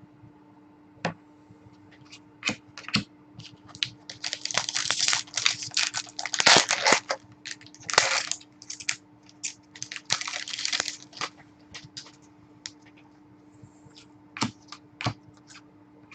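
Trading cards and their packs being handled: a run of clicks, scrapes and rustling, busiest from about four to eleven seconds in, with scattered single clicks before and after, over a faint steady hum.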